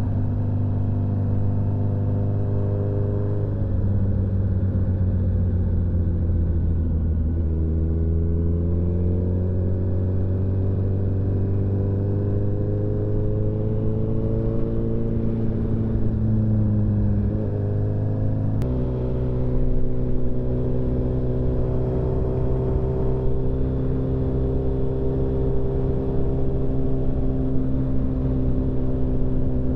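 Motorcycle engine running at cruising speed under the rider, heard from on the bike. Its pitch dips a few seconds in, climbs slowly over the next several seconds, then drops and steps to a steady note a little past halfway.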